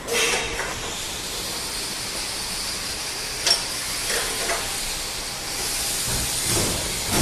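A steady hiss, with a few short sharp clicks about three and a half and four and a half seconds in.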